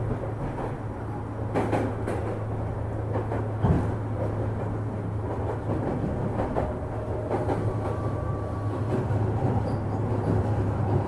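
Onboard running sound of a JR 205 series electric train, heard inside motor car MoHa 205-287: a steady low hum of the traction motors and wheels on rail, with a few sharp clicks of the wheels over rail joints.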